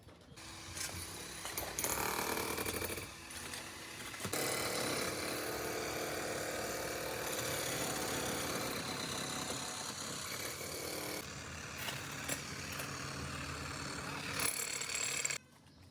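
Loud, steady noise of construction machinery or power tools running, with a few steady tones through it, cutting off abruptly near the end.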